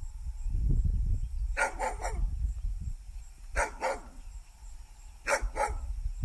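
A dog barking in three quick pairs of short barks, about two seconds apart, over a low rumble.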